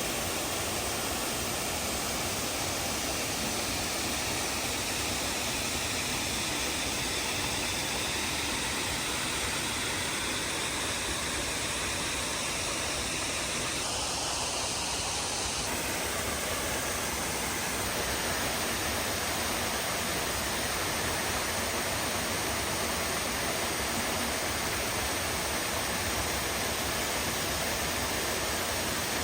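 Waterfall on a beck, close by: a steady, loud rush of falling water.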